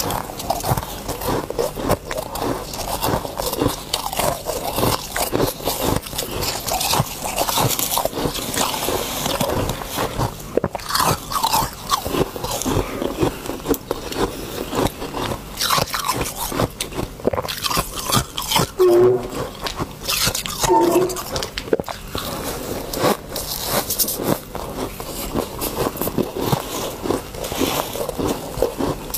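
Ice or freezer frost being bitten and chewed: a dense, continuous run of crunching and crackling.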